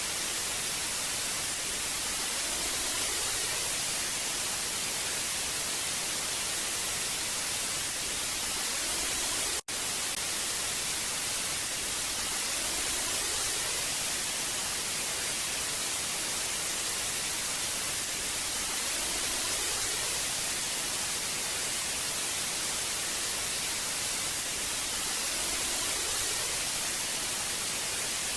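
Old analog TV static: a steady hiss, strongest in the high end, broken once by a split-second dropout about ten seconds in.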